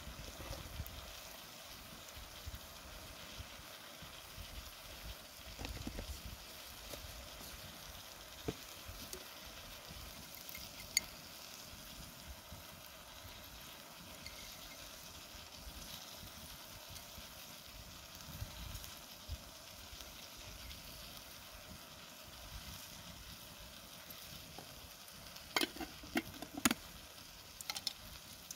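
Sliced onions frying in oil in an aluminium pot, a steady sizzling hiss. Near the end, a quick run of sharp metal clinks as a utensil knocks against the pot during stirring.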